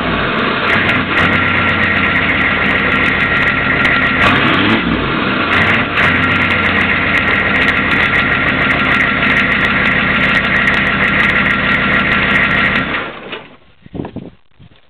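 GM 6.5-litre turbo diesel V8 running, revved up and back down twice, then shut off about thirteen seconds in, followed by a few faint knocks.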